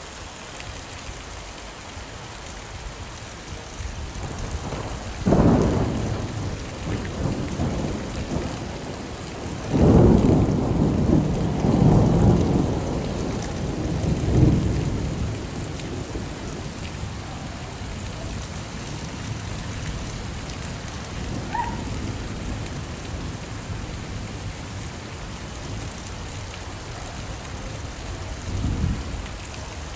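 Steady rain with rolls of thunder: a rumble about five seconds in, a longer, louder roll from about ten to fifteen seconds, and a shorter one near the end.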